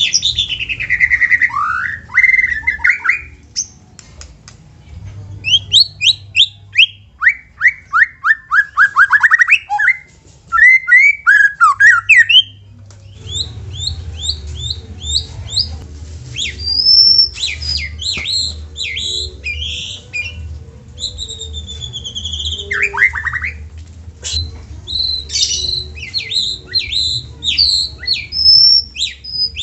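White-rumped shama singing a varied song: loud whistled phrases, quick runs of repeated notes and sharp chattering calls, one after another. A faint steady low hum sits underneath from about halfway.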